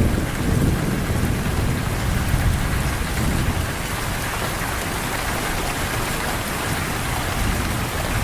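Steady rush of water, an even hiss with a low rumble underneath, as of heavy rain or fast-moving floodwater.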